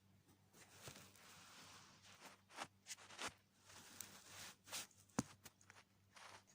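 Faint, irregular rustling and sharp little clicks: an African grey parrot tearing at and chewing neem leaves.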